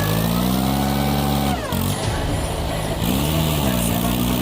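Mahindra 475 tractor's diesel engine revving: it climbs and holds, drops off sharply about one and a half seconds in, then revs up again around three seconds in.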